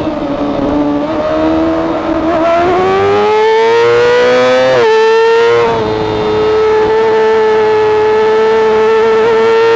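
Yamaha R6 inline-four racing engine with an Akrapovic exhaust, heard onboard at full throttle: the note climbs for about two seconds as the bike accelerates, dips with an upshift about five seconds in, then holds a steady high wail at high revs.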